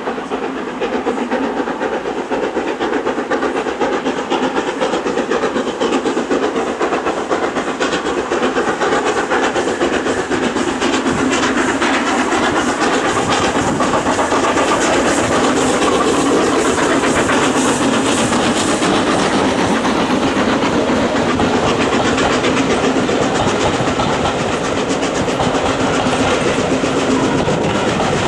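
Steam train passing: the locomotive's steam and hiss mixed with the carriages' wheels clattering over the rail joints. It grows louder to a peak about halfway through as the train goes by, then eases slightly.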